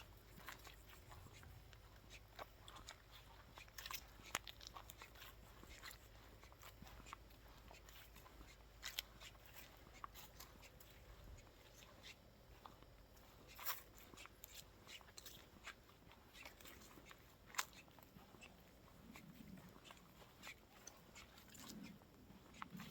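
Near silence: a faint low wind rumble on the microphone that dies away about halfway through, with scattered faint sharp clicks and ticks.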